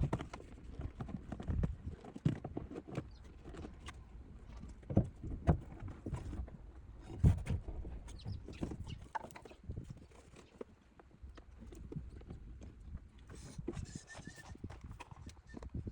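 Irregular knocks, taps and clicks of car interior parts and tools being handled and fitted during dashboard reassembly, with a few louder knocks partway through.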